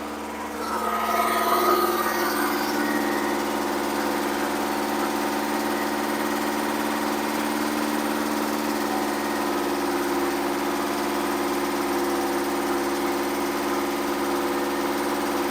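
Engine running steadily during its camshaft break-in, getting a little louder about a second in. The lifters are loud, which the owner expects to cure by rechecking the valve lash.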